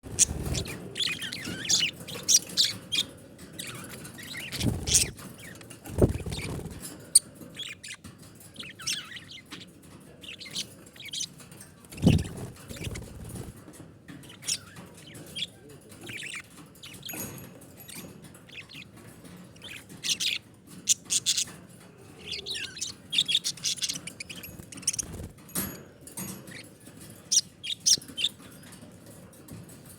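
Budgerigars chirping and chattering in quick, short high calls. There are a few low thumps around the fifth, sixth and twelfth seconds.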